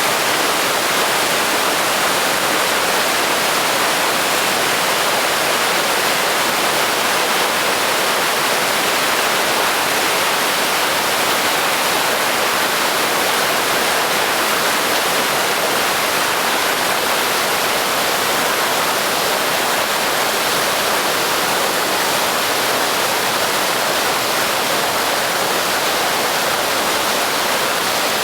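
Large waterfall swollen with snowmelt, its falling water making a loud, steady rush that does not change.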